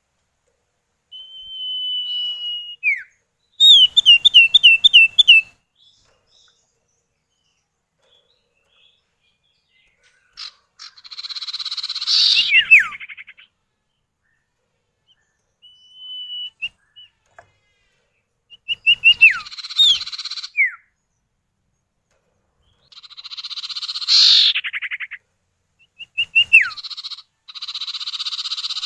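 Common iora (sirtu or cipow), male and female calling back and forth. Long drawn whistles that drop off at the end and quick runs of about six falling whistled notes alternate with harsh, buzzy chattering, in bursts a few seconds apart.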